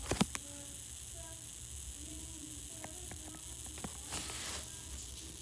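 New York City Subway E train running between stations, heard from inside the car: a steady hiss over a low rumble, with faint wavering whines and two sharp clicks just after the start.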